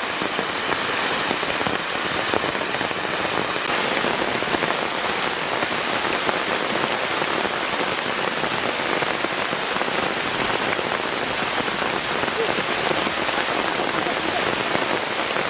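Heavy rain falling steadily: a dense, even patter that does not let up.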